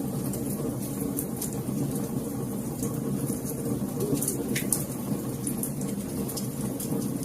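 Fireplace fire crackling: frequent sharp pops and snaps over a steady low rush of burning flames.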